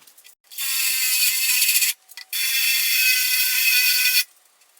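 Power drill with a large bit drilling out spot welds in a steel car door skin: two runs of a steady high-pitched whine with a short pause between them, the second slightly longer.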